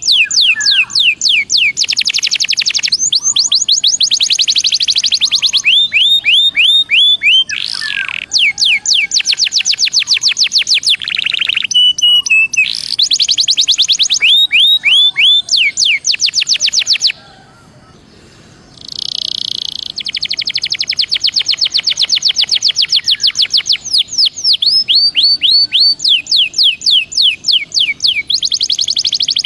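Belgian canary singing a long, loud song of fast trills and runs of repeated falling whistled notes, with a pause of about two seconds past the middle.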